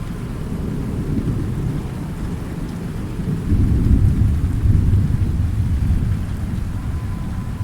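Thunderstorm: steady rain with a low rumble of thunder that swells about three and a half seconds in and dies back after about six seconds.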